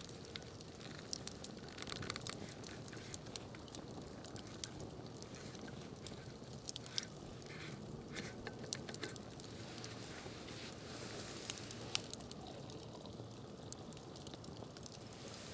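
Campfire crackling: irregular sharp pops and snaps over a low steady rustle.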